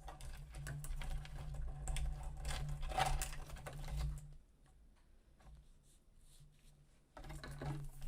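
Cables and small plastic parts being handled and pushed into place: a run of light, irregular clicks and rattles like typing, over a low steady hum. The handling pauses and goes quieter from about four seconds in to about seven seconds.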